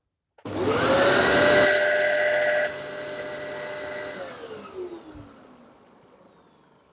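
Dyson DC07 bagless upright vacuum cleaner's motor switching on with a rising whine and running with a steady high tone. It drops in loudness twice, then is switched off and winds down, its pitch falling as it fades out near the end.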